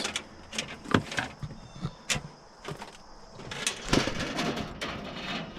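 Irregular knocks and clicks, about half a dozen over a few seconds, from handling and fitting plastic line hide (line set cover) pieces on a wall.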